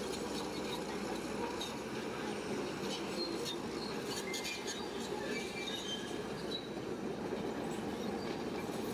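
Shantui crawler bulldozer working: a steady engine rumble under short high squeals and clanks from its steel tracks.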